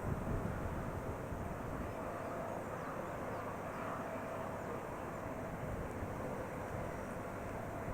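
Jet airliner engine noise at an airport, a steady hum with a faint whine.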